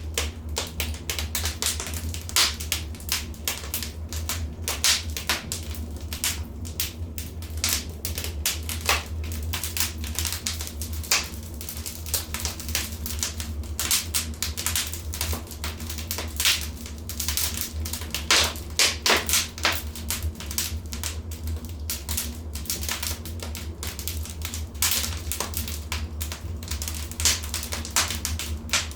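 Wood fire crackling in a fireplace: a dense, irregular run of sharp snaps and pops, some louder than others, over a steady low rumble.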